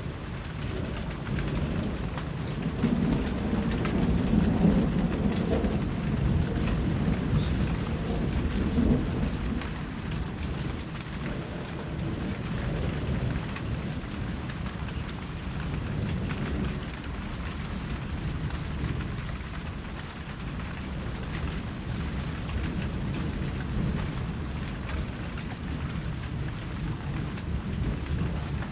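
Steady rain falling, with a long low rumble of thunder that swells a couple of seconds in and fades out by about a third of the way through, and fainter rumbles later.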